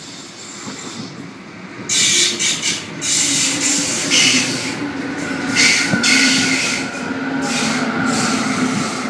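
Sydney Trains Waratah (A set) electric passenger train pulling into the platform, getting louder about two seconds in. Repeated hissing surges ride over a steady low hum, and a fainter higher whine joins near the middle.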